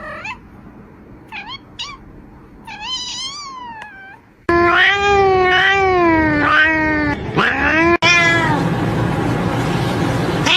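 A cat meowing: a few short, high meows in the first few seconds, then from about four and a half seconds in, much louder, long drawn-out meows that rise and fall in pitch.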